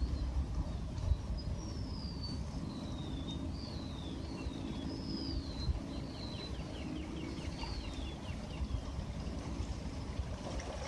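A songbird singing a string of short whistled notes that slide up and down, ending in a quick rattling trill, over a low rumble of wind and surf.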